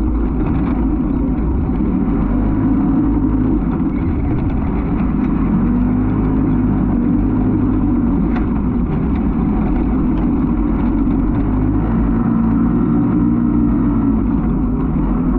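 Off-road race vehicle engine running continuously, its pitch rising and falling gently as it revs.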